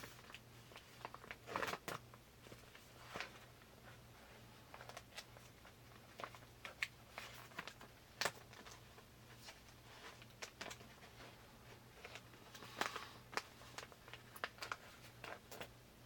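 Packaging being handled during an unboxing: scattered rustles, crinkles and light taps as a boxed travel grooming kit is turned over and opened, over a faint steady low hum.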